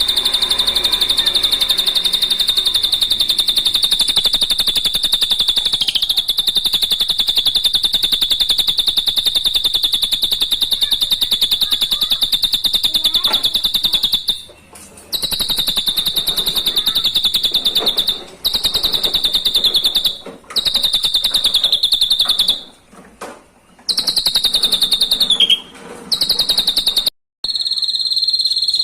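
Drongo song: a long, fast, high-pitched trill held at one steady pitch, broken by a few short pauses in its second half, with a brief downward slur near the end.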